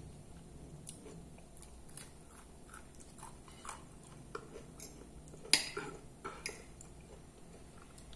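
A person chewing food, with a metal fork clicking and scraping against a glass plate. The sharpest click comes about five and a half seconds in, with two smaller ones just after.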